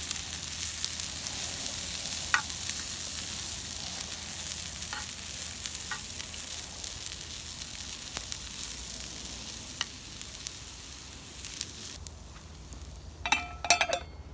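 Food frying and sizzling in a pan, with a few small ticks scattered through. The sizzle dies away over the last few seconds, and a brief sharper sound comes near the end.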